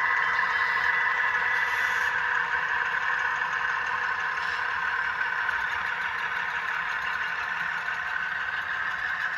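HO scale model diesel locomotives' ESU LokSound sound decoders playing the running sound of a GE 12-cylinder prime mover through small onboard speakers, steady and thin with little bass, mixed with the clatter of model wheels on the track.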